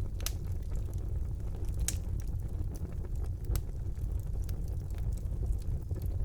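Wood fire burning in a fireplace: a steady low rumble of the flames with scattered sharp crackles and pops, the loudest ones near the start and about two seconds in.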